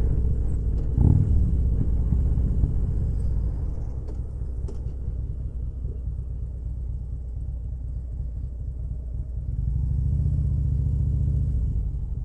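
Motorcycle engine running at low speed, easing off about four seconds in, then picking up again for a couple of seconds near the end.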